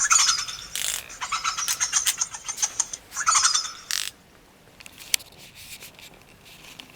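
Rapid high-pitched chattering screeches from a monkey, in two bursts over the first four seconds, each followed by a short rushing noise; after that it is much quieter, with a few faint clicks.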